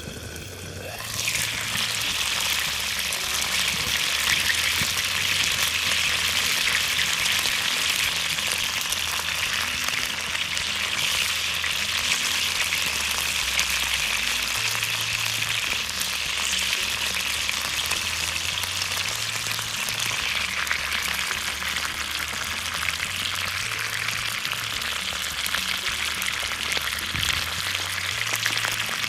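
Food sizzling and frying in a hot pan: a dense, steady crackling sizzle that starts about a second in.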